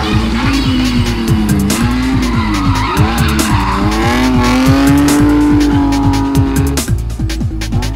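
Drift car sliding through corners, its engine revving up and down and its rear tyres squealing, over electronic music with a steady beat. The engine and tyre sound drops away near the end, leaving the music.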